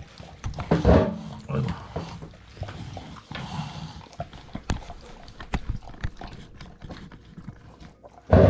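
Dogs (a Siberian husky and a golden retriever) chewing steamed salmon heads and tails: irregular wet crunching and clicking of jaws on fish bone, with a louder burst about a second in and another near the end.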